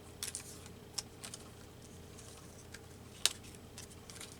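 Paper collage pieces being handled on a work surface: faint rustling and a few small clicks and taps, the sharpest a little past three seconds in.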